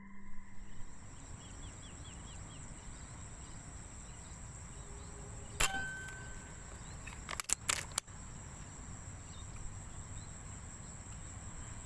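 Outdoor paddy-field ambience with a steady high insect whine and a few faint chirps. About halfway through comes a single sharp crack, likely an air rifle shot, and some two seconds later a quick cluster of sharp clicks.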